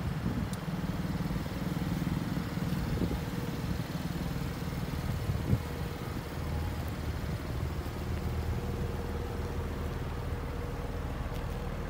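Car engine idling with a steady low hum; a single short knock about five and a half seconds in.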